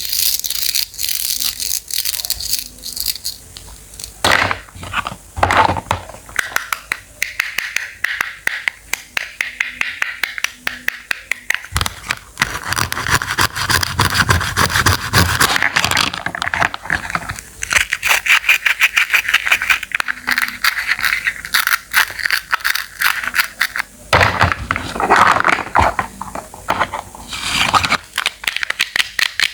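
Knife cutting fresh produce on a cutting board: a rapid run of sharp chops with scraping strokes between them.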